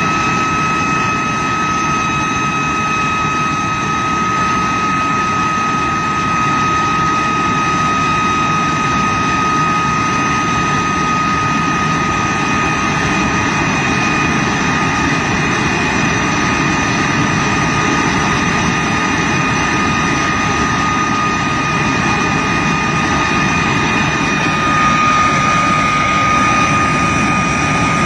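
De Havilland Vampire's Goblin turbojet running steadily on a ground run, a high steady whine over a dense roar, getting slightly louder near the end.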